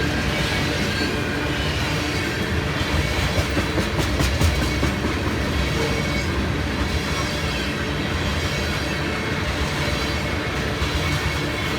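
Loaded CSX ethanol unit train rolling past, its steel wheels running on the rails in a steady rumble, with a run of sharper wheel clicks a few seconds in.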